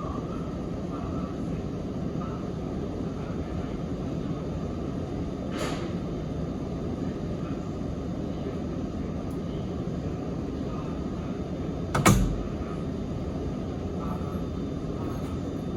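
Sanyo Electric Railway 3050-series train running, heard from inside the car as a steady rumble. There is a light click about five and a half seconds in and a sharp knock about twelve seconds in.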